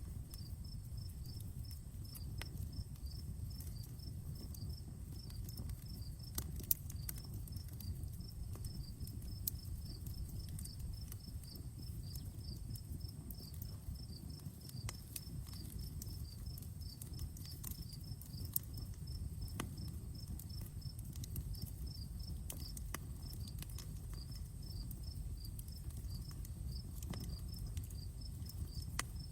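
Outdoor wood campfire crackling with scattered sharp pops over a low steady rumble, while crickets chirp in a fast, even pulsing rhythm.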